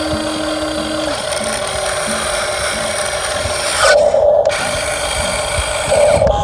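Small electric gear motors of a Huina 1550 RC excavator whirring steadily, growing louder briefly about four seconds in and again near the end.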